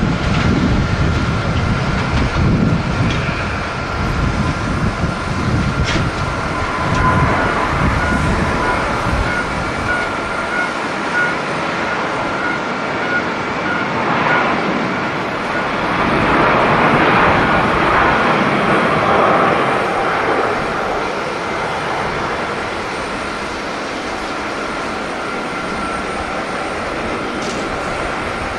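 Jet airliner engines running with a steady high whine and a rushing noise that swells about 16 to 20 seconds in, while strong wind buffets the microphone during the first ten seconds or so.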